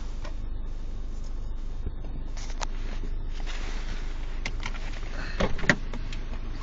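Car idling, heard from inside the cabin as a steady low hum, with a few scattered clicks and a brief squeak about five and a half seconds in.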